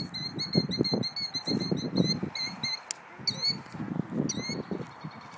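Killdeer calling in alarm: a rapid string of short, high notes, then two longer drawn-out calls about three and four seconds in, the agitated calling of a parent bird disturbed at its nest.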